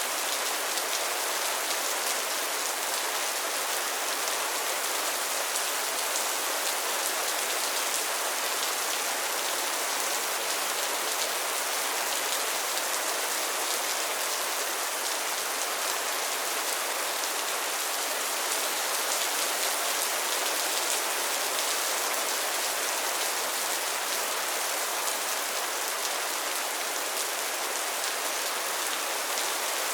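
Steady rain falling on still pond water and lily pads: a dense, even patter of drops.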